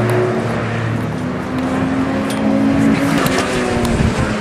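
Engines of tuned street cars running at speed on the race track as they pass. The engine notes are steady and shift in pitch about three seconds in.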